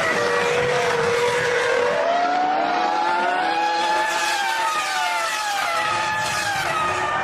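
Formula One cars' V10 engines running at high revs, several engine notes at once gliding up and down with gear changes and throttle.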